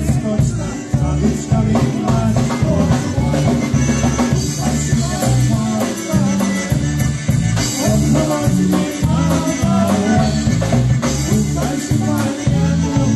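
Live polka band playing a polka, with drums keeping a steady, bouncing beat under the band.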